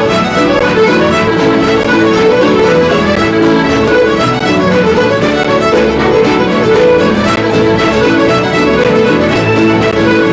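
Scottish traditional instrumental music led by fiddle, a steady stream of quick notes with accompaniment underneath.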